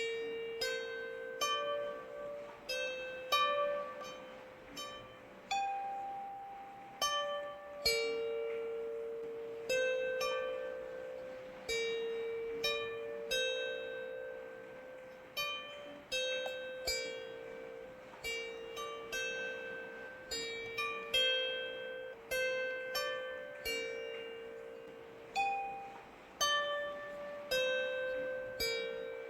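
Slow, gentle melody of plucked string notes, roughly one a second, each struck sharply and left to ring out and fade.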